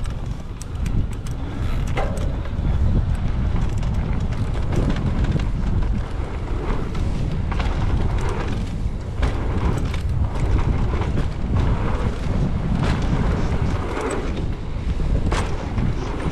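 Wind rushing over the microphone of a mountain bike riding fast along a trail. Frequent short clicks and knocks come from the bike rattling over rough ground.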